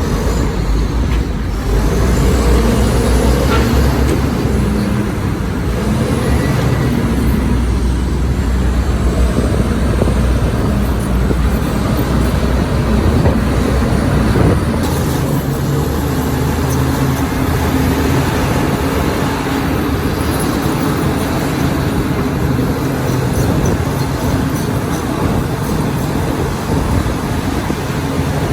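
Heavy diesel earthmoving machinery, a bulldozer and dump trucks, running steadily under load. The low engine note changes about halfway through.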